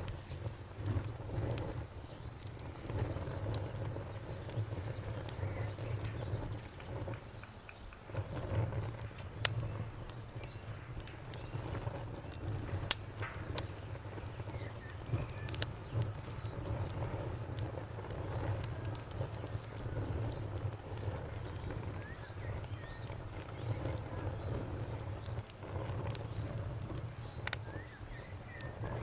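Night ambience of a crackling campfire with scattered sharp pops, the loudest about 13 seconds in, over a low pulsing chorus of frogs croaking and a cricket chirping in a fast, even trill.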